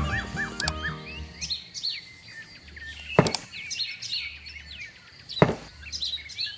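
Small birds chirping throughout, over a fading tail of music. Two sharp knocks about two seconds apart as miniature brick wall panels are set down on the diorama's gravel base.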